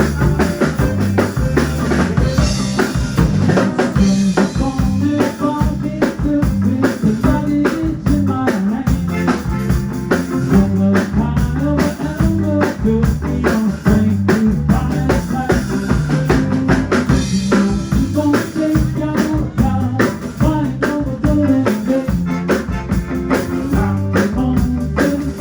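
Live band music: a drum kit keeps a steady beat under bass and guitar.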